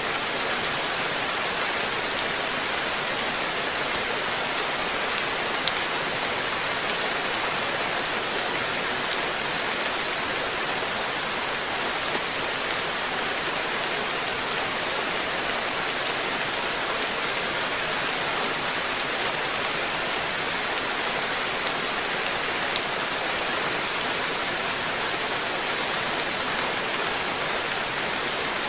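Steady rain falling on a garden koi pond, an even hiss with a few sharp ticks of single drops landing close by.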